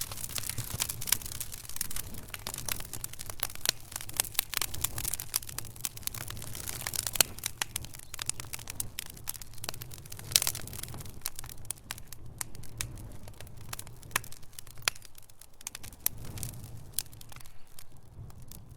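Wood fire in a fireplace, logs crackling and popping in a dense, irregular stream of sharp snaps, with a few louder pops at about 7 and 10 seconds in, over a low steady rumble of the flames.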